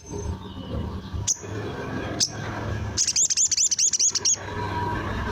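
Sogon (sogok ontong) bird calling: two sharp high chips about a second apart, then a fast trill of about nine looping high notes lasting just over a second. A steady low hum runs underneath.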